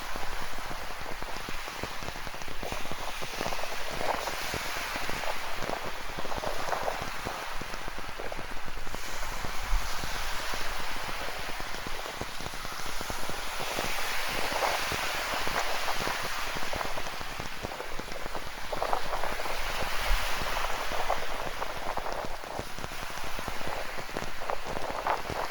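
Steady rain with a dense patter of drops, over the wash of ocean surf that swells up a couple of times.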